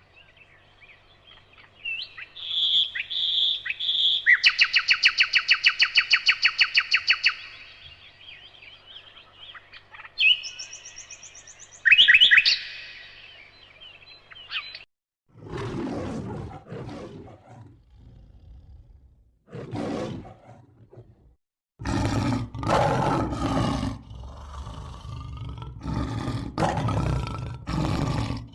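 Bird calls, high and chirping, with a fast, even trill of about ten notes a second, then, from about halfway through, a large animal roaring in several rough, deep bouts.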